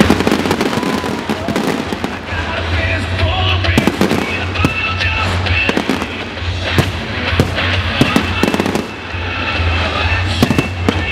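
Fireworks going off in an irregular string of sharp bangs, over loud music playing.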